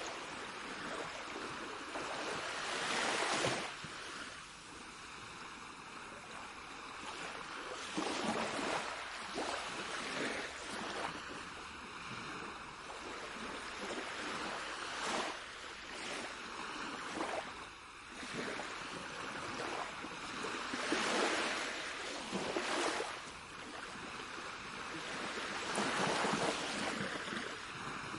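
Sea waves washing ashore, a steady rush of surf that swells into louder breakers every few seconds.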